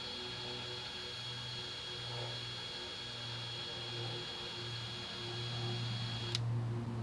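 Steady low electrical hum with a thin high whine over it; the whine cuts off suddenly about six seconds in, while the hum carries on.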